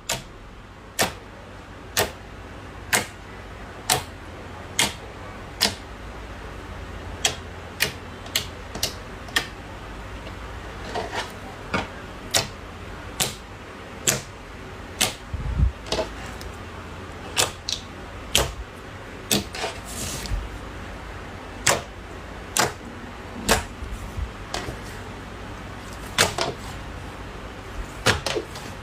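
Slime being pressed and worked by hand, giving a sharp, crisp pop about once a second over a low steady hum.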